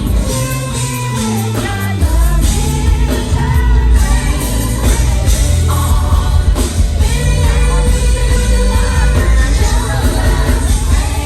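Live concert performance of an R&B song: women's voices singing over a band with heavy, steady bass.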